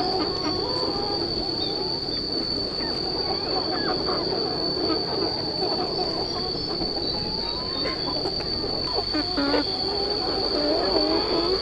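A large flock of chickens calling all at once, a dense, continuous chatter of many overlapping short calls, with a steady high insect drone over it.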